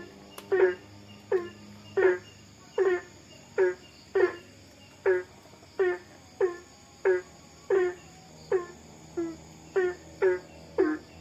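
An animal calling over and over at night, about one call every 0.7 seconds, each a short sharp note falling quickly in pitch. It sits over steady high insect chirring.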